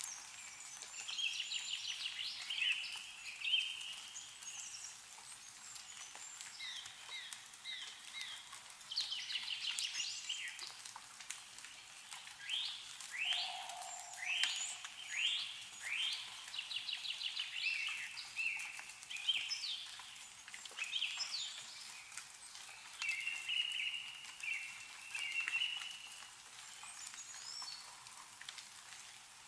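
Several birds chirping and calling throughout, with runs of quick sweeping notes in the middle, over scattered drips of snowmelt falling from trees.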